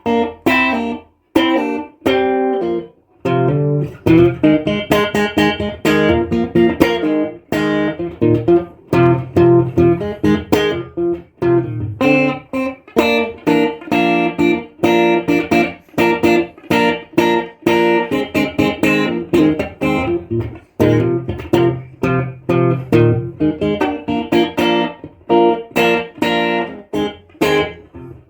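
Stratocaster-style electric guitar played solo: a continuous passage of quickly picked single notes and chords, with short breaks between phrases.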